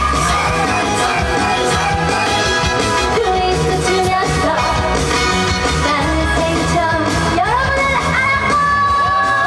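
A female trot singer singing live over loud amplified backing music with a steady beat, holding a long note near the end.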